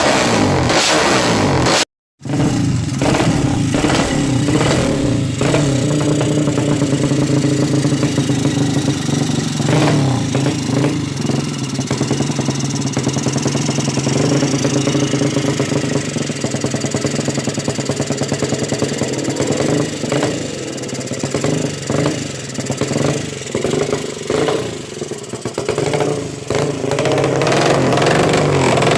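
200cc motorcycle engine with a Fanterra aftermarket exhaust and a KRJ carburettor, running at a low, steady idle (a 'sleep engine' idle). It is briefly revved at the start, the sound cuts out for a moment, and the idle then holds even, wavering in loudness for a few seconds near the end.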